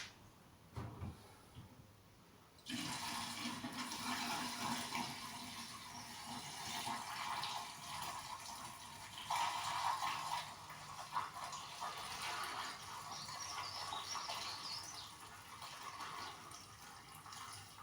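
Leftover heating oil poured from a fuel container into a diesel heater's fuel tank. The pour starts suddenly about three seconds in and runs on as a steady, fluctuating stream of liquid.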